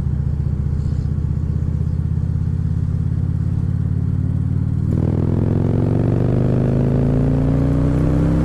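2014 Harley-Davidson Ultra Classic Limited's V-twin engine running at a steady road speed, then opening up about five seconds in, its pitch rising steadily as the bike accelerates, with road and wind noise.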